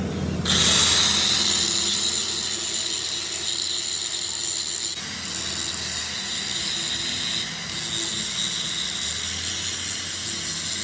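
A high-speed electric power tool running on metal: a steady high-pitched whine over a hiss. It starts about half a second in and eases briefly twice, around the middle and again a little later.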